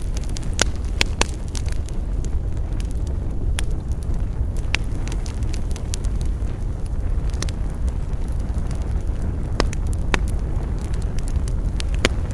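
Wood campfire burning, with sharp crackles and pops at irregular intervals, several close together about a second in and again near the end, over a steady low rumble.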